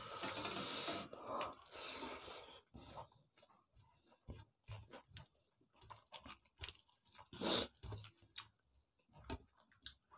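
Close-miked eating sounds: chewing and wet lip smacks of rice and spicy fish curry, with the squelch of fingers mixing rice on steel plates. One louder breathy sound about seven and a half seconds in.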